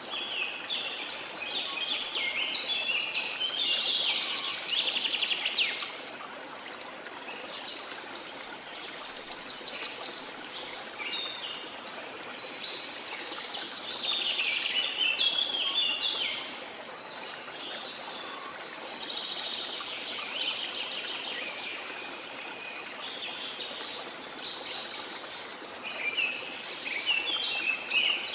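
Birds singing in bouts of rapid, chirping note series every few seconds, over the steady rush of a waterfall.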